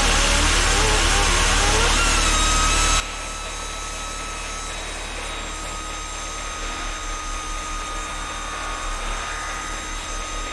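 Pneumatic angle grinder running at speed, its whine climbing in pitch over the first few seconds. About three seconds in the sound drops suddenly to a quieter, steady high whine.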